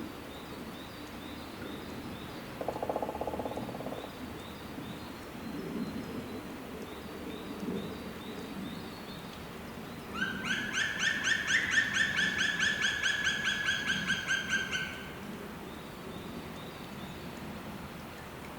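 An animal's rapid trill of evenly repeated notes lasting about five seconds, rising a little at its start and then held level, over steady outdoor background noise. A short low buzz comes about three seconds in.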